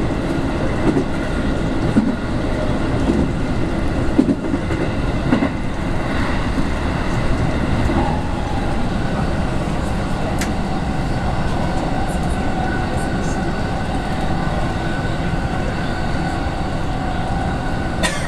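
Inside a JR West 221 series electric commuter train running at speed: the steady rumble of wheels and running gear, with a few rail-joint knocks in the first seconds. A faint steady whine comes in about eight seconds in.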